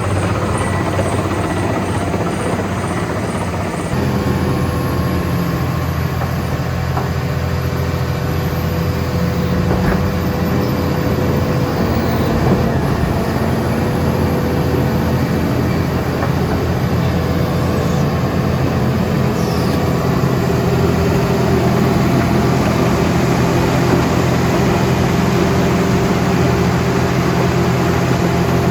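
Diesel engine of a Vögele Super 1803-3i asphalt paver running steadily, with a slight step in its sound about four seconds in.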